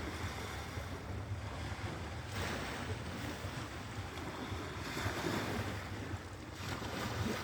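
Sea surf washing ashore in the dark, a steady hiss that swells a couple of times. Wind rumbles on the microphone underneath.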